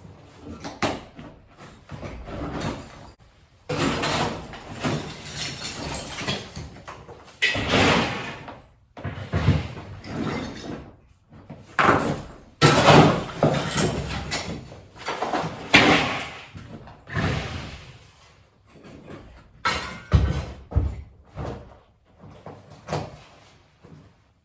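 Irregular bangs, crashes and scraping from renovation demolition work: plaster and rubble being broken off and handled, with a few sharp knocks among longer rattling crashes.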